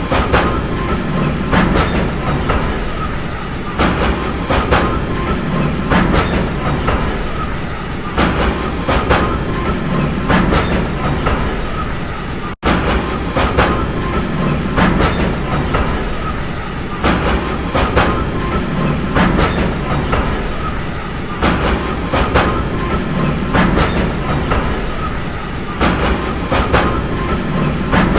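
Train running along the track, a steady rumble with its wheels clicking over the rail joints in a clickety-clack rhythm, clicks coming in pairs about every two seconds. The sound cuts out for an instant about halfway through.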